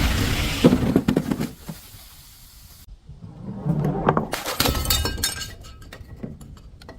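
Glass bottles breaking: a loud shattering crash at the start, then a second crash about three and a half seconds in, followed by small glass pieces tinkling and settling.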